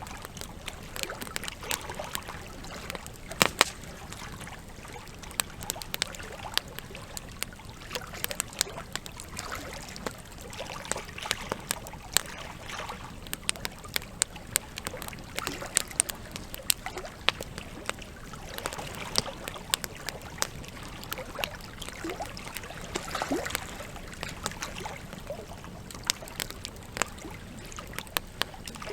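Wood campfire crackling, with many irregular sharp pops and snaps over a steady hiss of trickling water.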